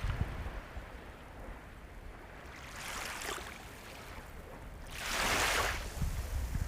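Sea waves breaking and washing in: a smaller wash about three seconds in and a louder one just after five seconds, over a constant low rumble.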